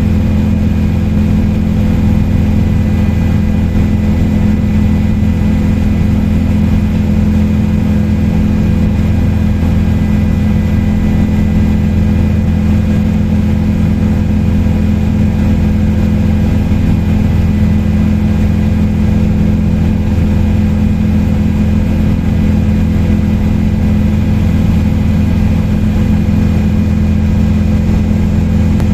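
Helicopter in level flight, heard on board: a loud, steady drone of engine and rotor with a constant low hum that does not change.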